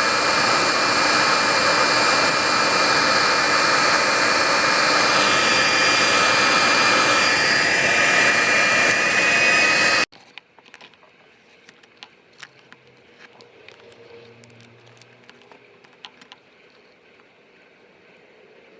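A motor-driven air appliance, like a blower or vacuum, runs with a steady rush of air and a faint whine, then switches off abruptly about ten seconds in. After that, only scattered light clicks and taps.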